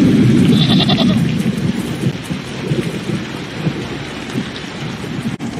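Heavy rain with rumbling thunder, heard from inside a stable and loudest in the first second. A goat bleats once, briefly, about half a second in.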